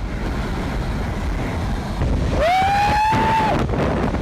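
Strong wind from a nearby tornado blowing on the microphone as a steady rush. About two and a half seconds in, a person gives one long excited shout that rises and then holds.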